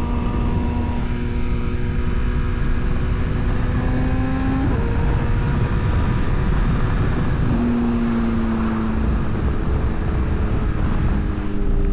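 Inline-four superbike engine running at a steady cruise, its tone climbing gently and then shifting about five seconds in, under heavy wind rumble on the riding microphone.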